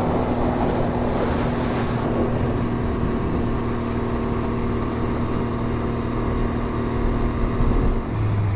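Can-Am Ryker Rally Edition's three-cylinder engine running steadily at speed, with road and wind noise. Near the end the engine note drops lower.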